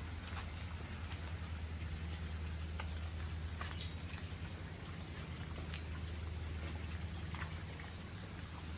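Outdoor ambience: a steady low hum under an even hiss, with a few faint, short clicks at irregular intervals.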